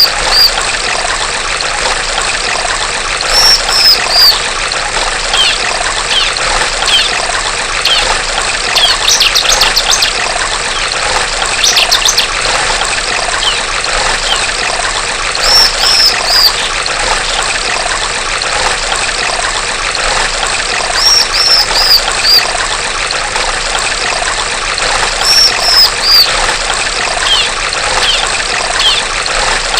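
Female bar-winged prinia (ciblek) calling in short groups of three or four high chirps every few seconds, with a quicker run of rapid notes about ten seconds in, over a steady trickle of running water.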